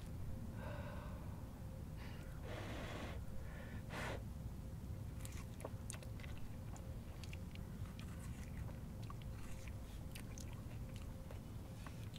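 A person chewing soft roasted squash by mouth, with many small wet clicks. In the first few seconds there are short soft scraping and tearing sounds as the flesh is pulled from the skin by hand.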